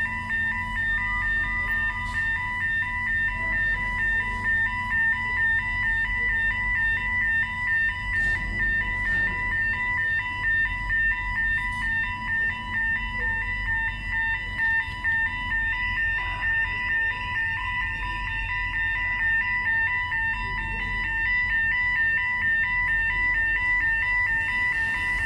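Electronic warning alarm sounding as a rapid, steady beeping, with a second, higher beeping tone joining about two-thirds of the way through. Underneath is the low, steady rumble of the MV Clansman's engines.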